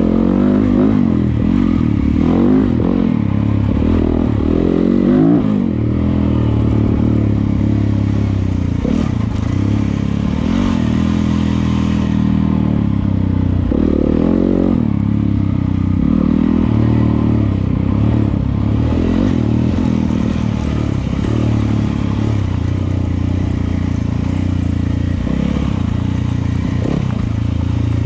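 Yamaha YZ250FX dirt bike's single-cylinder four-stroke engine running on a trail ride, the revs rising and falling with the throttle.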